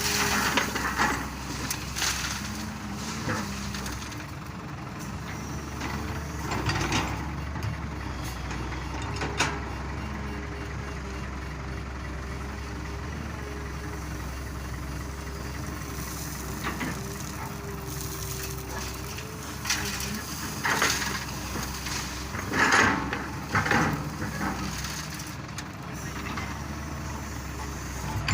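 Excavator diesel engine running steadily with a wavering hydraulic whine, while loads of rock crash into a dump truck's bed at irregular intervals. The loudest crashes come a little after twenty seconds in.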